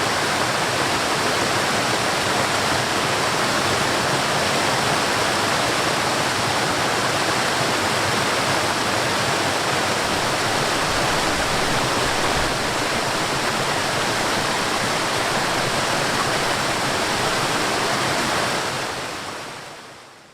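Water rushing steadily over a small waterfall and through a stream, a constant full hiss that fades out near the end.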